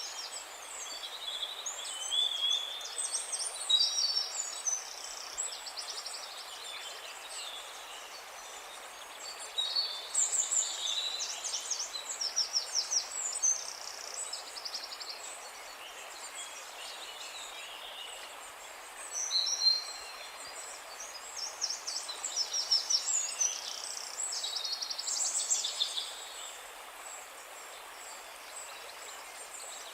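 Songbirds singing in four spells of rapid, high trills and chirps, over a steady background hiss.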